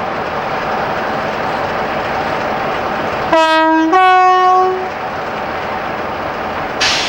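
Two-tone horn of a British Rail Class 60 diesel locomotive sounding about three seconds in: a lower note, then a slightly higher, longer one, about a second and a half in all. It sounds over the steady noise of the train running. A brief hiss comes near the end.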